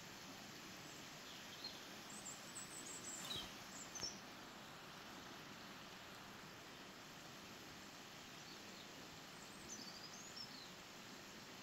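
Faint outdoor ambience: a steady quiet hiss with a few short, high bird chirps, one cluster about two seconds in and another near the end.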